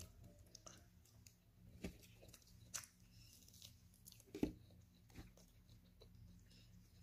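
Faint close-up chewing of food, with a few short crunchy clicks, the loudest about four and a half seconds in.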